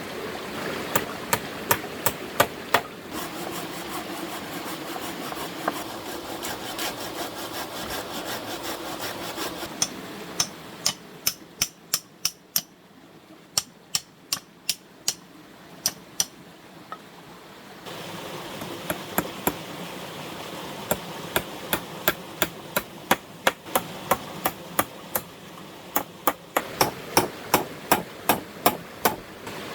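Hand hammering: runs of sharp, quick blows at about two to three a second, over a steady rushing background.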